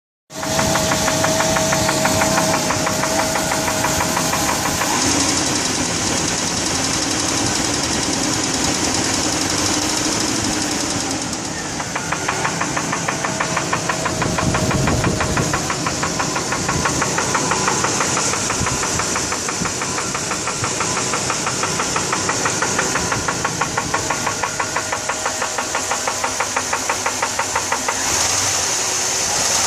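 1999 GMC Yukon engine running with a steady, rapid knock beating in time with the engine. The owner fears it means the engine is shot.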